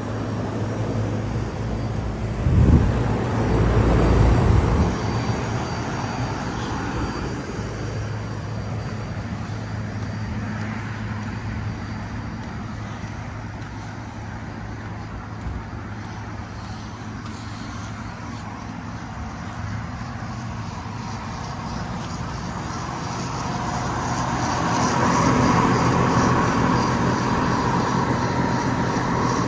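Air conditioner outdoor unit running with a steady low hum, sold as bad-sounding. It swells louder with a rushing noise a few seconds in and again near the end.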